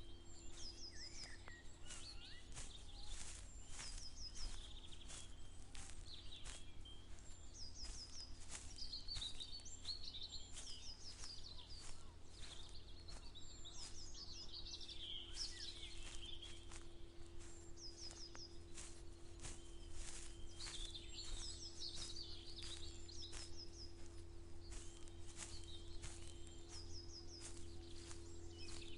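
Songbirds singing, one repeating a short high descending phrase every few seconds, over footsteps at a steady walking pace and a faint steady low hum.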